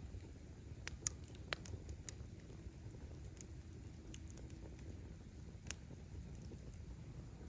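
Wood bonfire crackling: scattered sharp pops of burning firewood, the loudest about a second in and near six seconds, over a low steady rumble.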